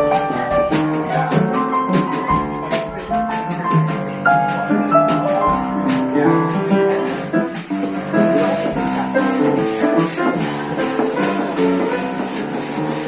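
Live jazz band playing, pitched instruments moving through chords and melody over light percussion, with a steady high shaking rhythm coming in about seven seconds in.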